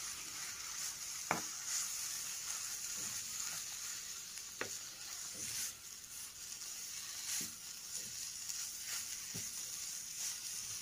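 Spinach and green pea paste with grated carrot and chillies sizzling in ghee in a pan, stirred with a spatula that scrapes and taps against the pan bottom several times.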